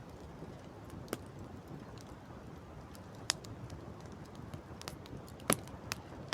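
Wood campfire crackling: a few sharp, separate pops from the burning wood, the loudest about five and a half seconds in, over a steady rush of wind and sea.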